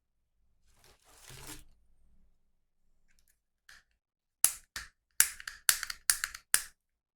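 Toy unboxing handling noise: a brief rustle about a second in, then a quick run of about seven sharp clicks and snaps near the end, like plastic packaging being opened.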